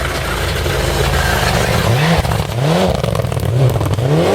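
Rally car engine approaching at full throttle on a forest stage, loud and getting louder. From about halfway in, its pitch rises and drops several times in quick succession as the driver revs and lifts.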